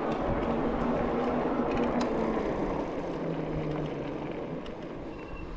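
A motor vehicle's engine running as it drives away, fading over the last couple of seconds.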